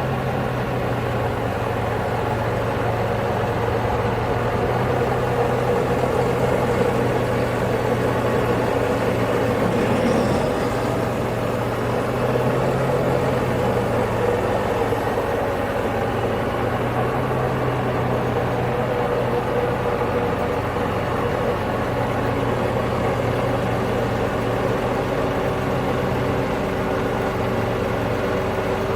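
Case IH Magnum tractor's diesel engine running at a steady speed, a continuous even drone.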